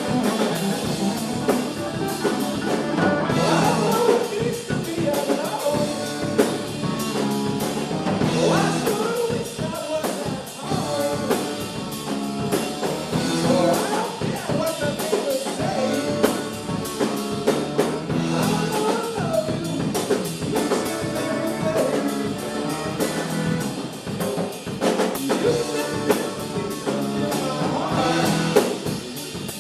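Live rock band playing through a PA, with a singer over a full drum kit and guitars.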